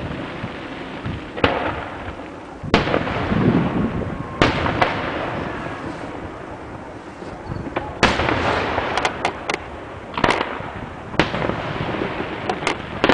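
Distant fireworks going off: irregular sharp bangs with echoing tails, over a steady hum of background noise, with a quick run of three cracks about nine seconds in.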